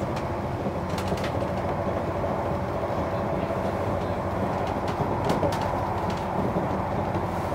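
Cabin noise of a Class 197 diesel multiple unit at speed: a steady running rumble from wheels, rails and engine, with a few faint clicks, a pair about a second in and another just past five seconds.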